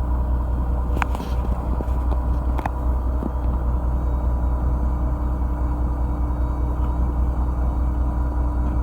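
Fishing boat's engine running at a steady pitch, a low rumble with a steady hum over it; a couple of sharp clicks about one second and two and a half seconds in.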